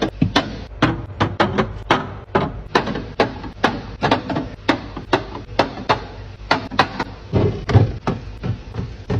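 Groceries and containers being set onto refrigerator shelves: a quick, uneven run of clacks and knocks, two to four a second.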